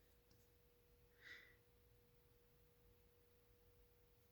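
Near silence: room tone with a faint steady hum, and one brief faint high sound about a second in.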